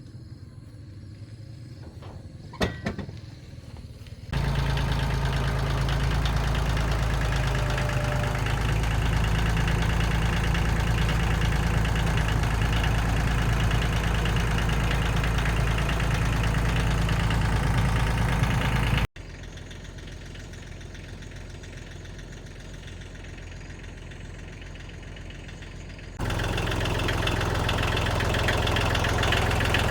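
Engine idling steadily, starting abruptly about four seconds in after a sharp click, dropping to a quieter steady hum near the middle and coming back loud near the end.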